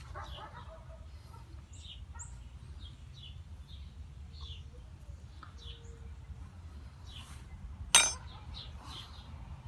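Small birds chirping in short, scattered calls, over a steady low rumble. A single sharp click sounds about eight seconds in.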